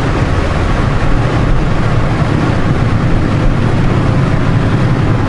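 Steady on-board riding noise from a Honda Gold Wing motorcycle under way: wind and road rush with the engine running underneath.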